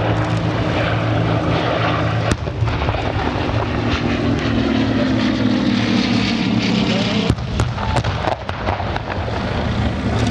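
The Bristol Blenheim's twin Bristol Mercury radial engines running at display power in a flypast, the propeller drone falling in pitch as the aircraft passes, around the middle.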